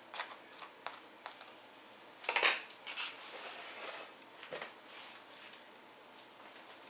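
Light clinks and scrapes of a knife and dishes while a sandwich is put together, with one louder scrape about two and a half seconds in.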